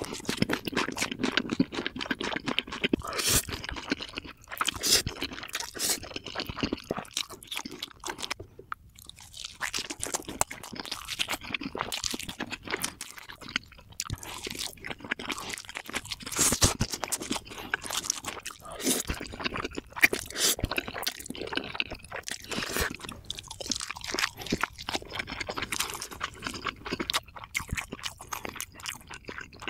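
Close-miked eating: a person chewing and crunching mouthfuls of food, with irregular crackles and mouth clicks and a brief lull about eight seconds in.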